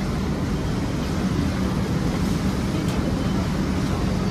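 Singapore MRT train running at a steady speed, a constant rumble of wheels on rail with a steady low hum.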